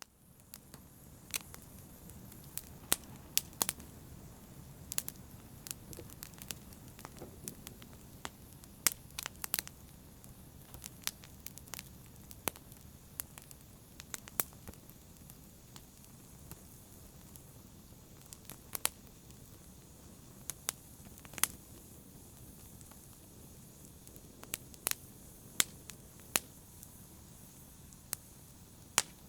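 An open fire crackling: irregular sharp pops and snaps, about one or two a second, over a soft steady rumble of burning.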